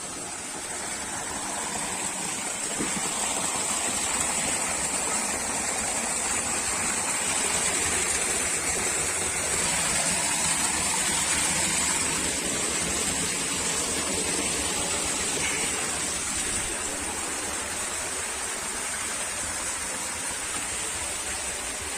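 Stream water flowing and splashing steadily.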